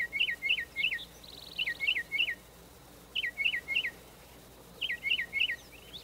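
A songbird scolding: bursts of three or four sharp, down-slurred call notes, repeated about every second and a half, with a short buzzy trill about a second in.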